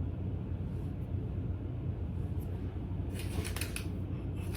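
Steady low background hum, with a short burst of rustling and clicking about three seconds in.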